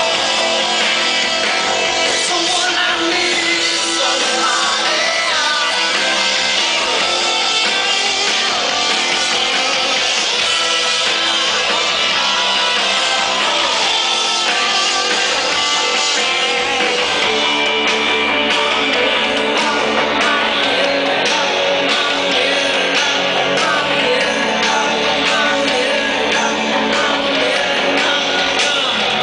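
Live rock band playing: electric guitars with sung vocals, loud and unbroken.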